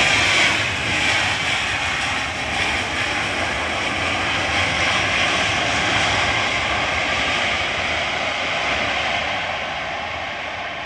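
A fixed-wing aircraft's engines running loud as it passes. The noise is loudest about half a second in, then slowly fades over the following seconds as the plane moves away.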